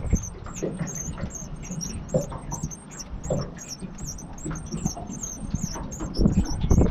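Small birds chirping rapidly with short, high-pitched notes, over low rumble and a few knocks and bumps close to the microphone, which grow louder near the end.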